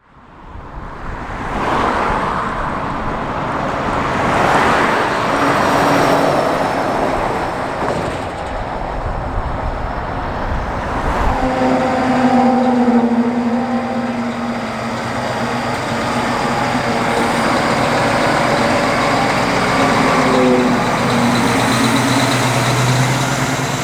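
Diesel truck traffic fading in, with swells of vehicle noise as vehicles pass. From about halfway a steadier engine drone with a clear tone takes over.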